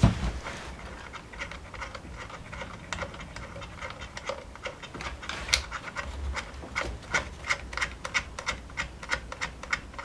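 One loud knock, then a run of small irregular clicks and taps that come closer together in the second half, from parts and tools being handled during reassembly.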